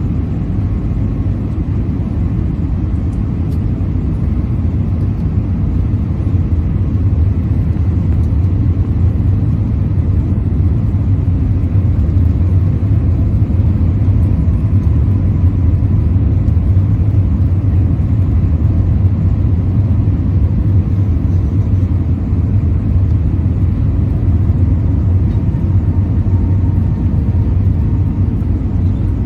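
Steady cabin noise of an Airbus A320-232 in flight, heard from a rear window seat: a low drone of airflow and its IAE V2500 engines, with faint steady tones riding on top. It grows slightly louder about six seconds in.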